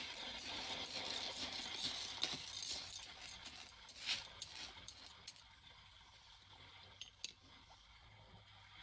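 Sea wash swelling through the first few seconds and then easing off, with a few sharp clinks of hard objects being picked through: one about two seconds in, one near four seconds, and a quick pair near the end.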